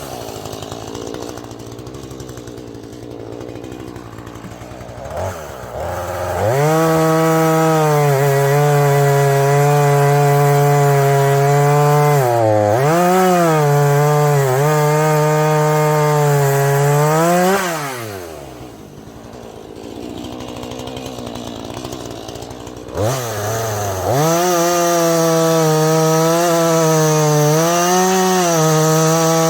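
Husqvarna 440e single-cylinder two-stroke chainsaw idling, then run up to full throttle and cutting wood with an 18-inch bar, its pitch dipping as the chain loads up. About two-thirds of the way through it drops back to idle, then revs up and cuts again.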